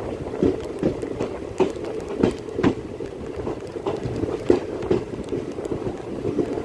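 ICF passenger coach running along the track: a steady rumble of wheels on rail, broken by irregular clacks and knocks as the wheels pass over rail joints.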